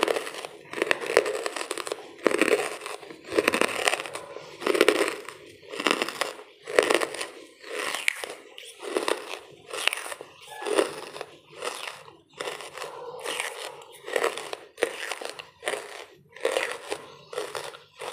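Close-miked chewing of lumps of charcoal: repeated brittle crunches, about one a second, with smaller crackling bites in between.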